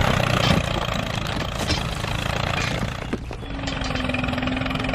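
Engine running steadily with a low, even pulsing; a steady hum joins in about three and a half seconds in.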